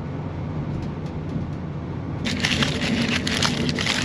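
Steady low rumble of a moving Voyager diesel train, heard inside the carriage. About two seconds in, a loud crackling, rustling noise starts and continues.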